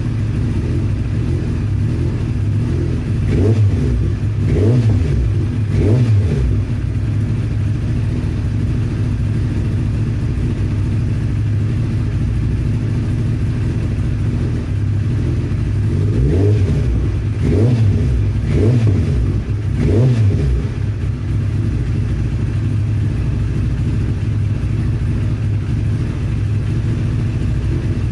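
Motorcycle engine idling through its exhaust with short throttle blips: three quick revs a few seconds in, then four more past the middle, each rising and dropping straight back to idle.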